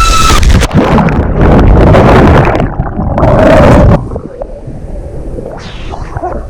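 Loud splashing and gurgling water with rumbling buffeting on the microphone. About four seconds in it cuts down abruptly to a quieter wash of water noise.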